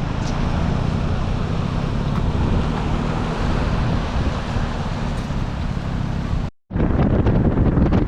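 Wind buffeting the microphone over the steady running of an off-road jeep. The sound drops out for a moment near the end, then returns.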